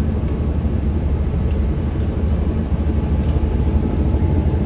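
Helicopter engine and rotor running, heard from inside the cabin as a steady low rumble.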